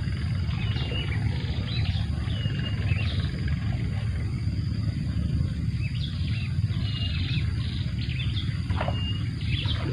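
Small birds chirping, short high calls repeating about once a second, over a steady low rumble.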